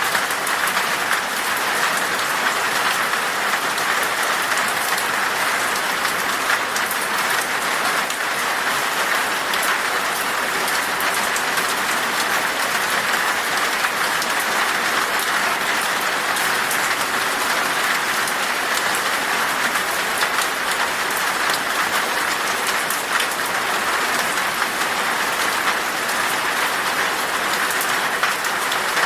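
Steady rain falling in a forest, an even hiss of drops with many fine patters on leaves and ground.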